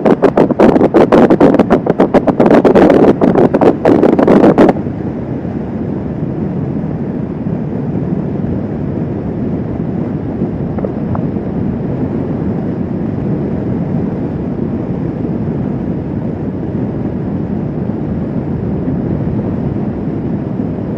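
Wind buffeting a motorcycle-mounted microphone in loud gusts, cutting off suddenly about five seconds in. It gives way to the steady rush of wind and engine noise from a Kawasaki Vulcan S 650 cruiser riding at speed.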